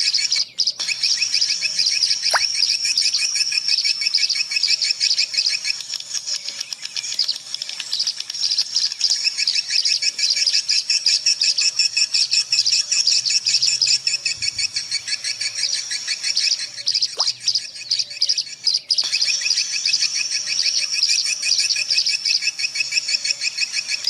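Swiftlets chirping in a dense, continuous chatter of fast, high chirps, a commercial swiftlet call recording of the kind played to draw swiftlets to a nesting house. The chatter breaks briefly about half a second in and again around 17 to 19 seconds.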